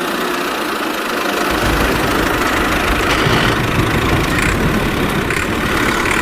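Engine running steadily at idle, with a deeper low rumble coming in about a second and a half in.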